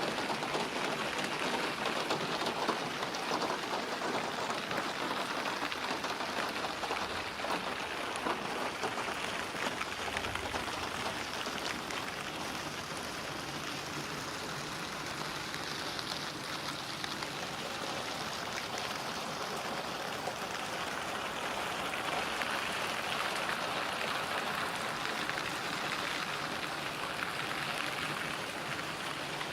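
Steady rain falling: an even hiss of many drops pattering on surfaces, keeping a constant level.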